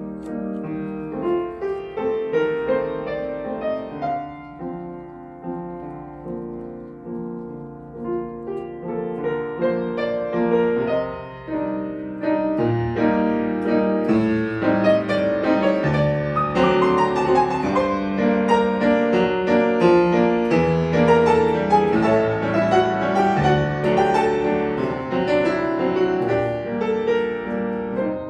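Piano music in a slow, lyrical style that grows louder and fuller about twelve seconds in.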